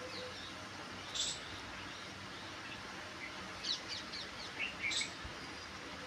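Birds chirping: a short high chirp about a second in, a quick run of chirps near four seconds and a couple more near five seconds, over a steady background hiss.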